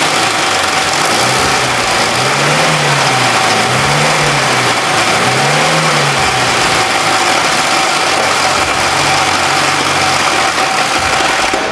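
Carburetted four-cylinder car engine running with bearing balls, spark-plug ceramic and screws loose in its cylinders. It makes a very loud, very high metallic noise over the engine note and is revved up and down three times. The debris is being pounded and ground between the pistons, the cylinder walls and the head.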